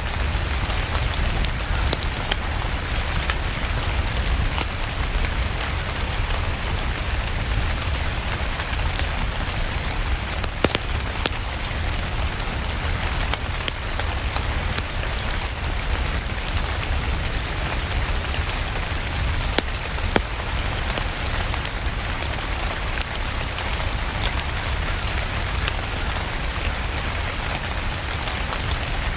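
Steady rain mixed with a wood fire in a fireplace, with a low rumble underneath and scattered sharp pops and crackles.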